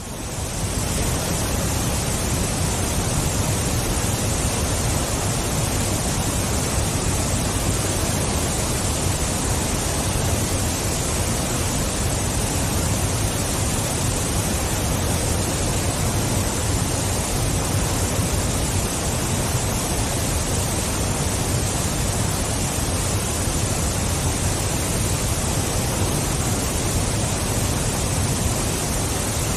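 Waterfall: a steady, dense rush of falling water, heaviest in the low end, fading in over about the first second and then holding even.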